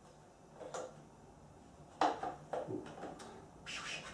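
Plastic parts of a vacuum cleaner knocking and clicking as its filter is fitted back into the housing: a handful of separate knocks, the loudest about two seconds in, and a brief scrape near the end.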